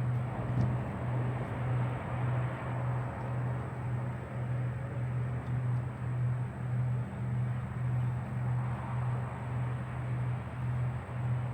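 Road and tire noise of a moving vehicle on newly fitted 30-series low-profile tires, with a low hum that pulses evenly a little under twice a second.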